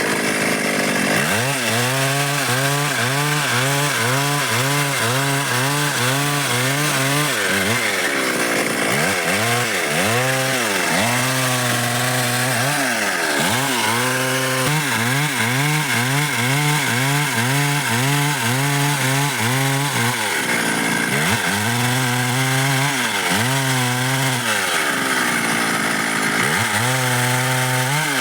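Stihl MS 382 two-stroke chainsaw cutting through dry wood at high revs. Its pitch rises and falls about twice a second as it works through the cut, in spells of several seconds with short breaks between.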